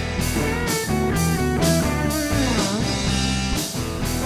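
Live rock band playing an instrumental passage between sung lines: electric guitar lead with bending notes over bass and drum kit.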